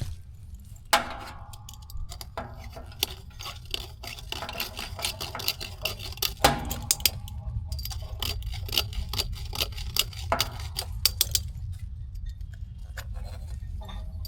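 Copper refrigerant tubing and tools being handled: many light metallic clicks and clinks, with three sharper knocks that ring briefly, about a second in, near the middle and about ten seconds in. A steady low hum sits underneath.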